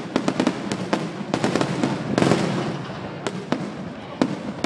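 Aerial fireworks shells bursting: a rapid run of sharp bangs and crackles, thickest and loudest about two seconds in.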